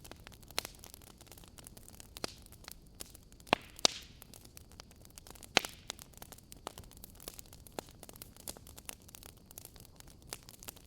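Fireplace crackling: a constant scatter of small sharp crackles over a faint hiss, with a few louder pops in the middle.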